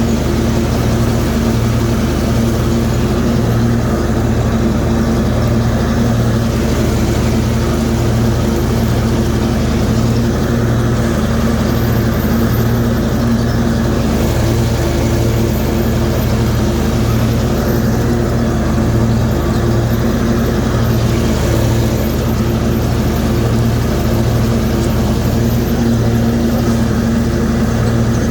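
Zero-turn riding mower's 24-horsepower Kohler engine running steadily at mowing speed, blades engaged and cutting grass.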